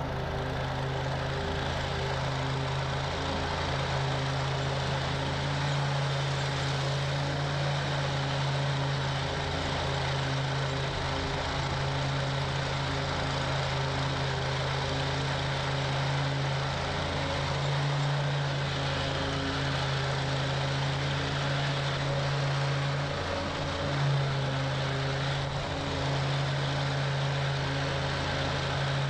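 Toro Grand Stand stand-on commercial mower running steadily at mowing speed, a constant engine drone with its blades turning.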